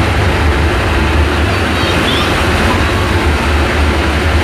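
Cruise boat under way: a steady, loud low engine rumble with a rushing hiss over it.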